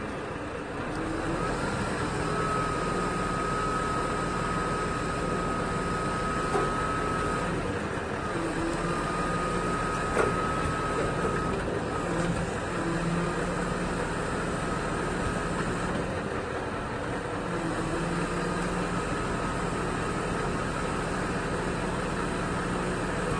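An engine running steadily, with a thin high whine that starts and stops several times.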